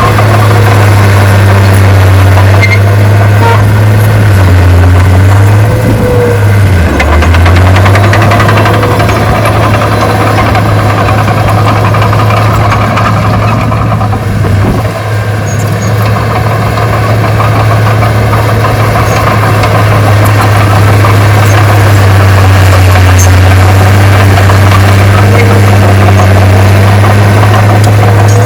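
Heavy diesel engine of earthmoving machinery running steadily, its note dipping briefly a few times as the load or throttle changes.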